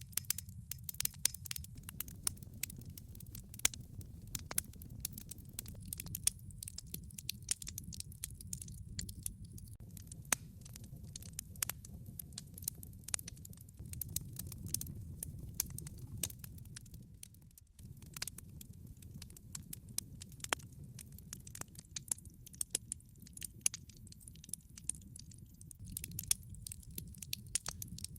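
Wood log fire crackling: many sharp, irregular pops and snaps over a low, steady rumble. The rumble drops out for a moment about two-thirds of the way through.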